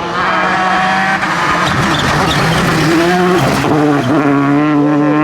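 Rally car engine running hard at high revs, loud and steady in pitch, dropping and picking up again about three to four seconds in.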